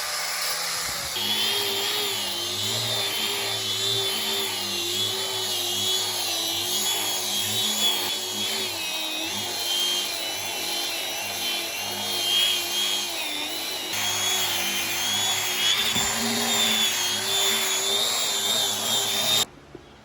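A power tool's motor running on wood, its pitch wavering slightly as the load changes. It picks up about a second in and cuts off abruptly near the end.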